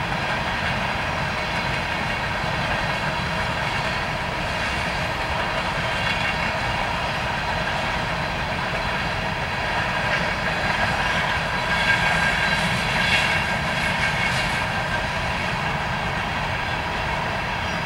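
Union Pacific coal train's freight cars rolling past: a steady rumble and clatter of steel wheels on rail, with thin high-pitched tones over it that grow a little louder about eleven to fourteen seconds in.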